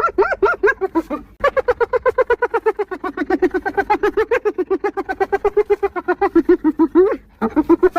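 Spotted hyena giggling: rapid runs of short, high yelping notes, about eight to ten a second. A short bout, then a long one of about six seconds that sags slightly in pitch and rises again at its end, and a new bout starting near the end.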